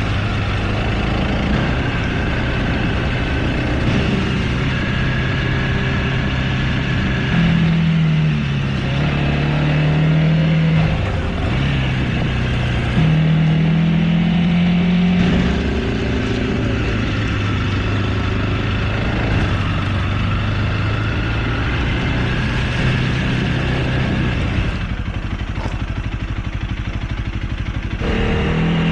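Honda CRF300L's single-cylinder four-stroke engine running under way as the bike is ridden, its note stepping up and down several times with throttle and gear changes.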